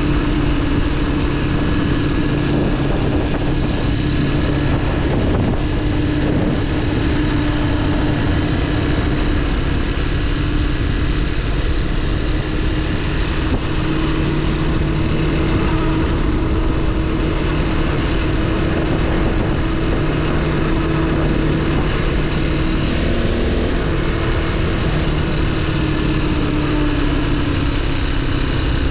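Motorcycle engine running at a steady cruise while being ridden, its note holding nearly level and easing down slightly near the end, with wind rumble on the action-camera microphone.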